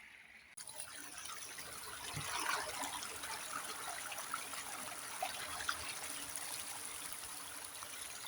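Heavy rain falling: a steady hiss with scattered small patters. It starts suddenly about half a second in.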